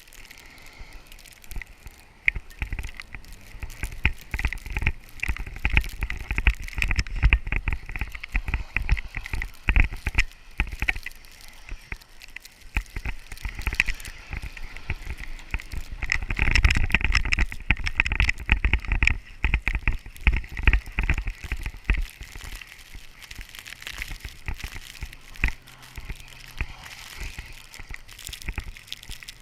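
Jeep doing donuts in snow: a low rumble under dense crackling as the tyres churn through the snow, swelling loudest a little past halfway.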